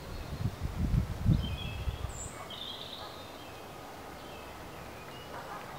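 Small birds giving a few short, high chirps in the background, mostly in the middle of the stretch, over faint outdoor ambience. There is low rumbling in the first two seconds.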